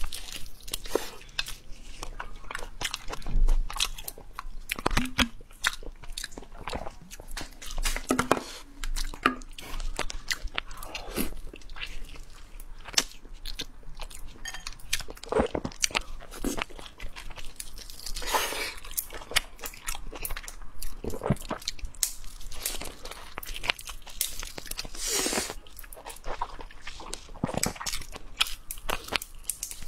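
Close-miked chewing and biting of braised lamb tripe stuffed with lamb brain: an irregular, dense run of short mouth clicks and crunches.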